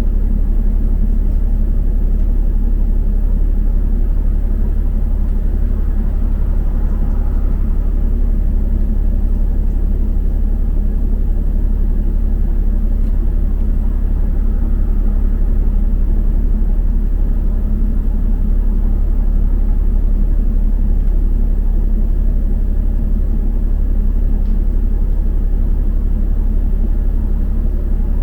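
Double-decker bus on the move: a steady, deep rumble of its engine and road noise.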